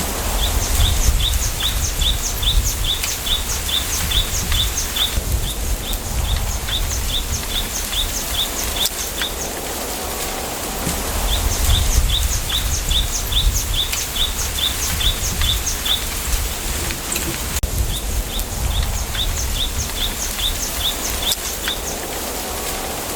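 Wind in a bamboo grove, a steady hiss with a low, gusting rumble, while a bird sings four bouts of quick, short, high falling notes, about four or five a second, each bout lasting several seconds.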